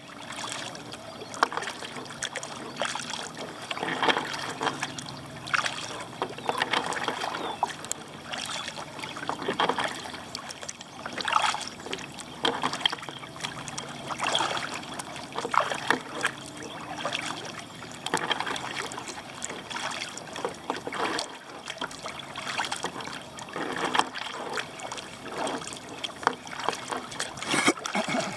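Kayak paddle strokes: the blades dip and swish through the water in a steady rhythm, about one stroke every one and a half to two seconds, with water trickling off the blades between strokes.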